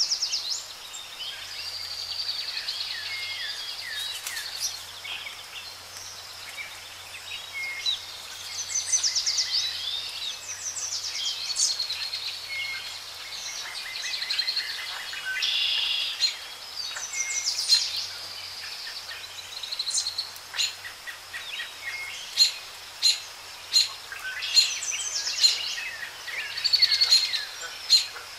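Several birds chirping and singing in overlapping, rapid calls, with short sharp clicks standing out in the last third.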